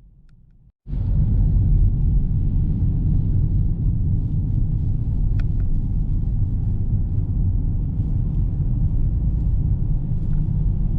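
Car driving on the road, heard from the dashboard inside the cabin: a steady low rumble of tyres and engine that comes in suddenly about a second in, with a few faint ticks.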